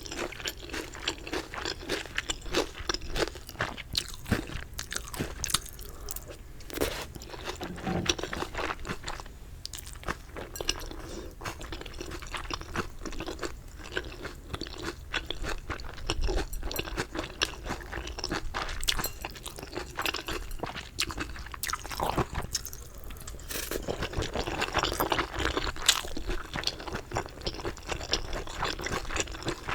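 Close-miked eating of 갈비레오 chicken: continuous chewing and crunching with many irregular crackles and bites.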